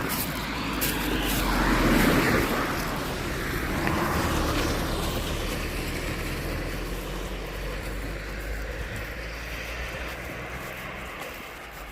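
Engine noise of a passing vehicle, a steady low hum that swells to its loudest about two seconds in and then slowly fades.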